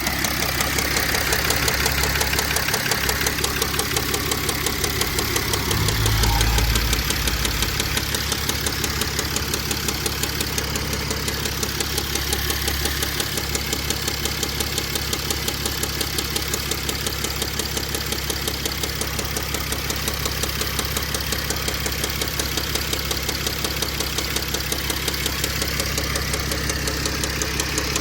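Mercedes CLS 320 CDI's 3.0-litre V6 diesel running with a steady, rapid knocking from the engine, which the owner suspects is a failing rod bearing. It swells briefly about six seconds in.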